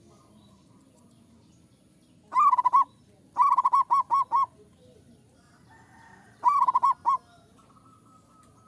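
Zebra dove (perkutut) cooing in three bursts of quick, repeated notes: a short one, a longer run of about five notes a second later, and a third burst near the end.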